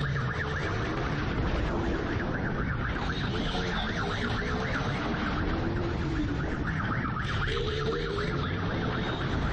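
A police siren wailing, its pitch slowly rising and falling, over the steady noise of a motorcycle engine and wind rush during a high-speed chase.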